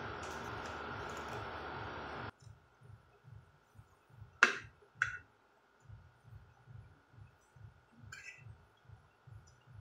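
Close-miked chewing, soft low thuds about two to three a second, while a spoon and fork work a ceramic plate of food: two sharp clinks half a second apart about halfway through, and a lighter clink later. A steady hiss fills the first two seconds and cuts off suddenly.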